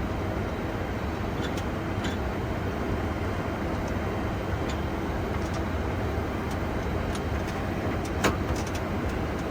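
Steady low drone and hiss inside a Boeing 747-400 cockpit with the engines still running at idle, just before shutdown, with a faint steady hum. A single sharp click about eight seconds in.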